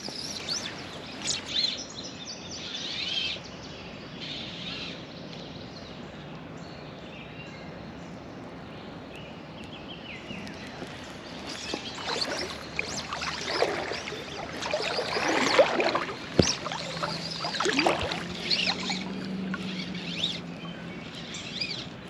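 Creek water running and sloshing, with louder irregular splashes through the second half and birds calling.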